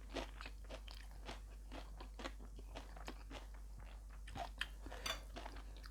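A person chewing a mouthful of beef laab and rice close to the microphone: faint, irregular crunches and wet mouth clicks.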